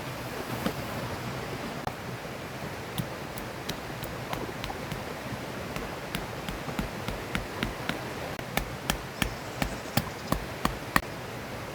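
Steady rush of a river flowing, with a run of sharp knocks that start about three seconds in and grow louder and quicker near the end, about three a second.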